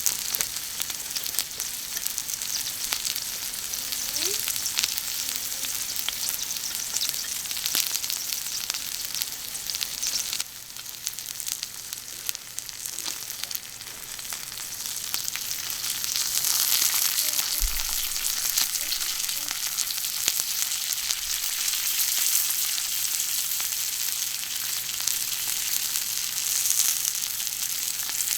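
Food sizzling and crackling on a thick iron griddle. The sizzle drops in level about ten seconds in, then builds up louder again a few seconds later.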